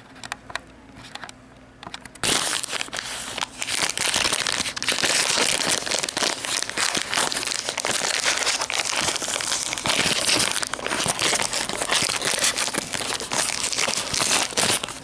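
Nature Valley almond butter biscuit wrapper being opened and handled, a dense, continuous crinkling of the packaging that starts about two seconds in.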